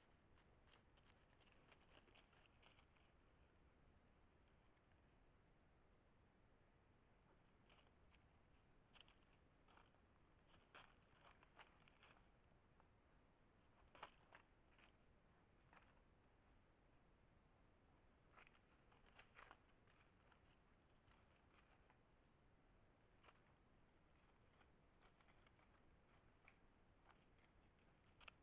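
Insects trilling in a fast, even, high-pitched pulse, easing off briefly twice, with a few faint rustles or clicks.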